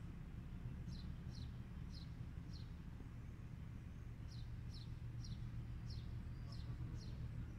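A bird calling with short, falling chirps about twice a second: a run of four starting about a second in, and a longer run from about four and a half seconds in. A steady low hum lies under it.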